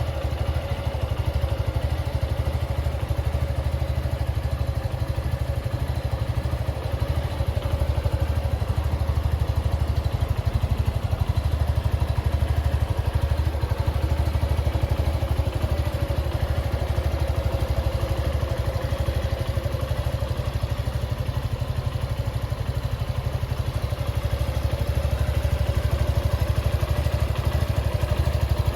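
Suzuki Gixxer 150 single-cylinder engine idling steadily, with no revving.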